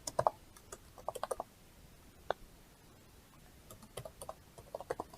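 Computer keyboard keys clicking in small, irregular clusters with gaps between them.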